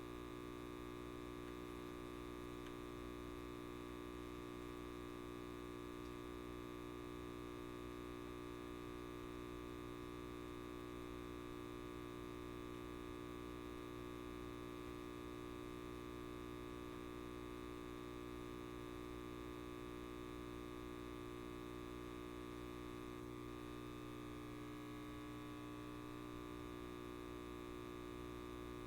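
Light bulb buzzing: a steady electrical hum made of many tones at once, with no change in level. A faint falling sweep passes through it a little over three-quarters of the way in.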